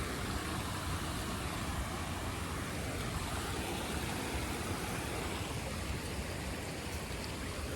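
Steady rushing of a shallow creek, with wind rumbling on the microphone.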